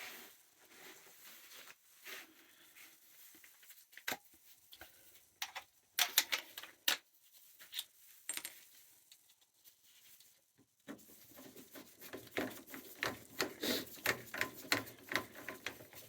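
Scattered clicks, taps and light clattering of small parts and tools being handled, a short burst about six seconds in and busier, denser clicking in the last five seconds over a faint low hum.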